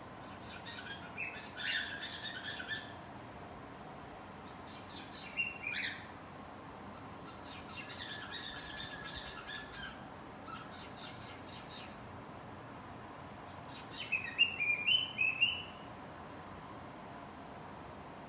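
Cockatiel singing in separate bursts of chirps and warbling whistles a few seconds apart. The loudest burst, about three-quarters of the way in, is a quick run of notes stepping upward in pitch.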